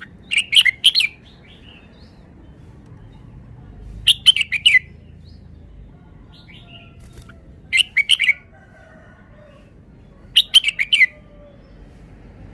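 Red-whiskered bulbul singing: four short phrases of a few quick notes, each well under a second and spaced about three seconds apart.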